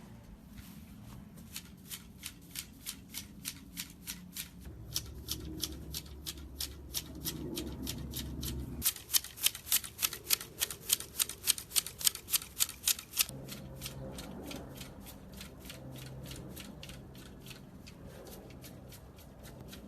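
Hand pruning shears snipping foliage in a steady rhythm of about three cuts a second. The snips are loudest for a few seconds in the middle.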